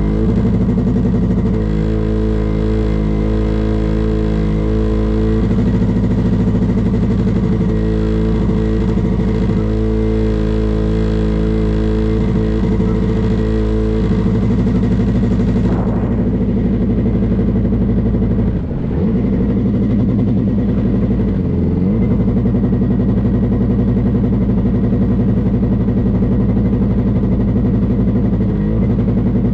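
Boat engine running steadily at speed. Its pitch dips sharply and briefly twice about two-thirds of the way through, and once more near the end.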